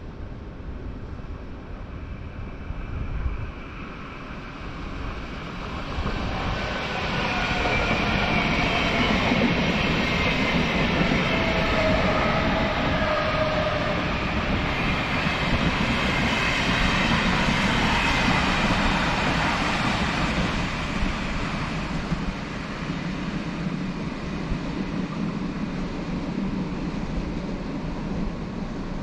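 Electric train passing: the rumble builds over several seconds, a whine drops in pitch as it goes by, and the noise holds for over ten seconds before fading.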